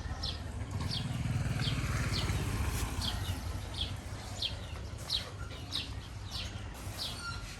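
A small bird, or a chick, chirping over and over in short, high, falling notes, roughly one every half second or so. A low rumble sits under the first few seconds.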